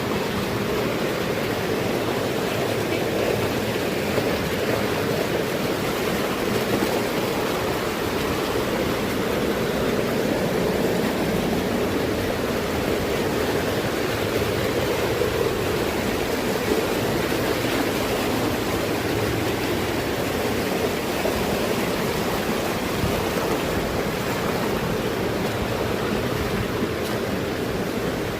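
Steady rush of flowing water, an even noise strongest in the low-middle range that holds at one level throughout.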